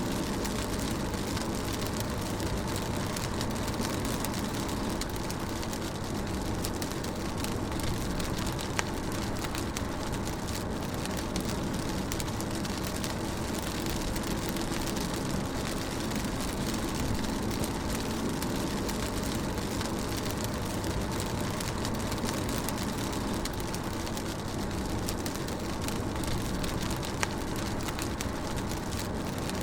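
Rain falling on a moving car with the engine and tyre rumble underneath, a steady hiss and drone with a few single sharp drop ticks.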